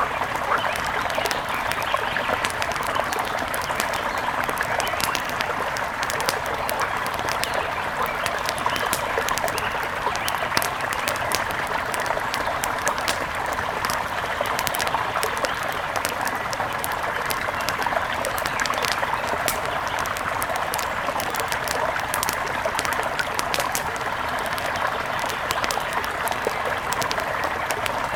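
Steady rush of flowing river water, overlaid throughout by frequent small crackles and pops of a wood fire.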